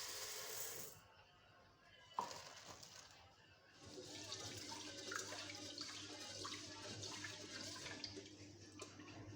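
Water running from a kitchen tap into a sink, starting about four seconds in and running steadily, after a short hiss at the start and a single click about two seconds in.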